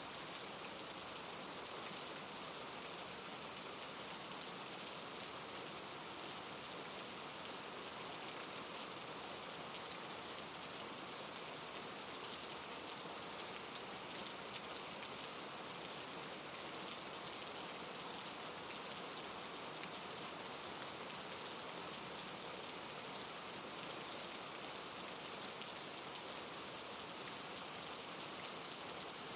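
Steady soft rain falling, an even hiss of drops with faint tiny patters and no change in intensity.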